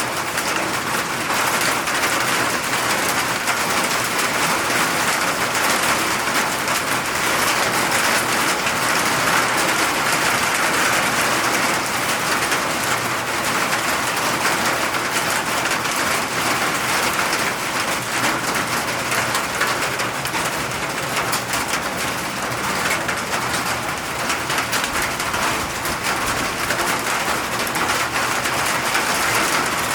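Steady rain falling: an even, continuous hiss of drops with fine pattering, unchanging in strength.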